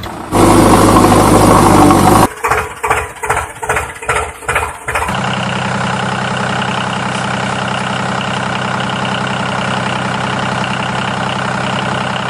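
Engine sounds in three parts: a loud burst of engine noise lasting about two seconds, then six chugs about half a second apart, then a steady idle.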